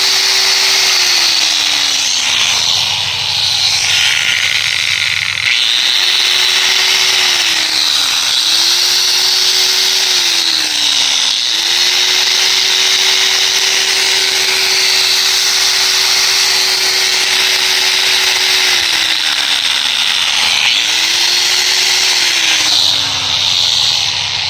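Makita 9005B angle grinder, running on a freshly rewound stator, switched on and off about five times. Each time its whine rises to speed, holds steady (once for about seven seconds), then falls as the released grinder coasts down. The rewound motor is running under power.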